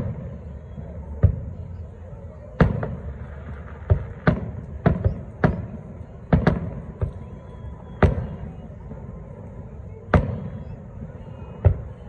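Aerial fireworks shells bursting, about a dozen sharp booms at uneven intervals, some in quick clusters, each trailing off in an echo.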